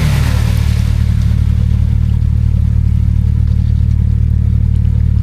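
Off-road 4x4's engine coming off the revs at the very start, then running steadily at low revs.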